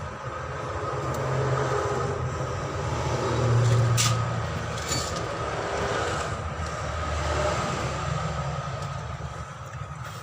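A low, noisy mechanical rumble that swells and fades several times, like heavy vehicle or machine noise, with a faint steady whine throughout.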